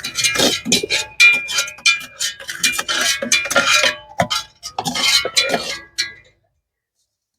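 Rapid, irregular metallic clinks and scrapes with a short ringing tone, as a scoop knocks against the cut-open steel gas cylinder while wet plaster of Paris mix is ladled in. The clinking stops about six seconds in.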